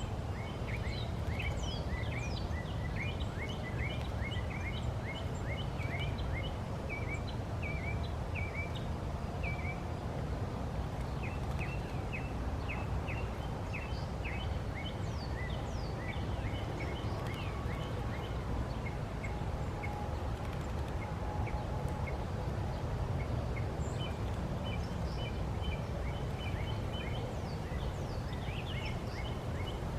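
Backyard birds chirping in quick, short calls, a dense run in the first ten seconds and again near the end, over a steady low rumble.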